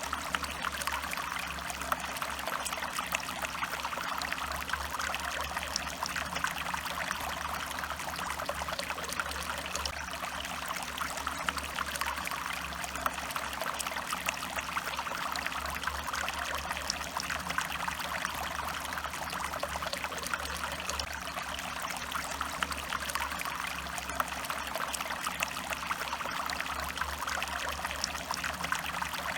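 Small stream flowing and trickling steadily over stones, a constant babble of water.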